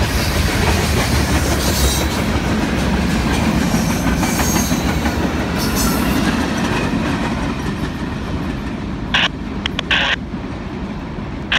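Norfolk Southern manifest freight train's cars rolling past, a steady rumble of wheels on rail with clickety-clack, growing quieter as the end of the train moves away. A few short high-pitched squeaks come about nine to ten seconds in.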